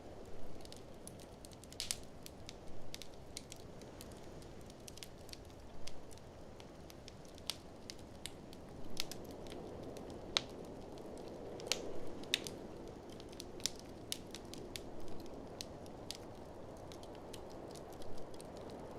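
Fireplace wood fire crackling, with frequent irregular sharp snaps and a few louder pops, over a steady rushing of blizzard wind.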